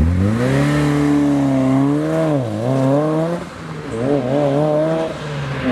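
Mitsubishi Lancer Evo VI's turbocharged 4G63 inline-four engine revving hard, its pitch climbing, holding and wavering. About three and a half seconds in, the revs fall away, then pick up again before easing off near the end.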